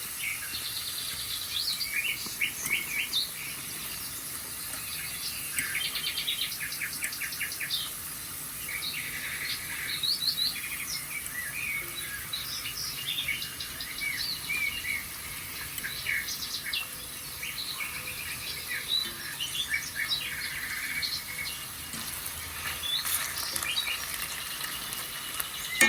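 A chorus of many songbirds chirping and calling, with a rapid trill about six seconds in, played back over a TV's speakers.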